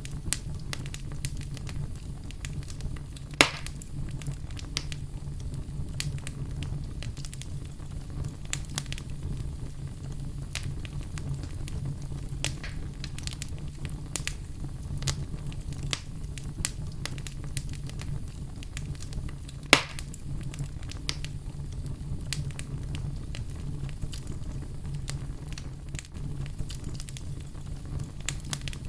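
Fireplace fire crackling over a steady low rumble, with frequent sharp pops; two pops, a few seconds in and about two-thirds of the way through, are much louder than the rest.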